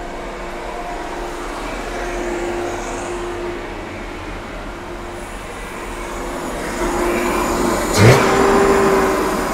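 Jaguar XK straight-six engine running at a fast, racing idle soon after a cold start. The owner later finds the cause: a part stuck in the throttle linkage. A sharp knock about eight seconds in is the loudest sound.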